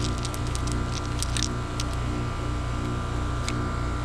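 A steady machine hum with a regular pulsing drone, over which come a quick run of light metallic clicks in the first second and a half and one more near the end, typical of wrench work on refrigerant line fittings.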